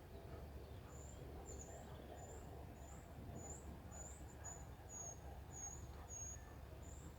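Faint, short, high-pitched animal chirps repeating about twice a second over a steady low rumble.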